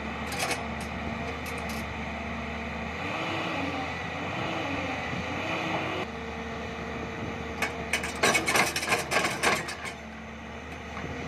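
JCB excavator's diesel engine running steadily, its pitch wavering for a few seconds as the hydraulics work, then a run of sharp clattering knocks about eight seconds in.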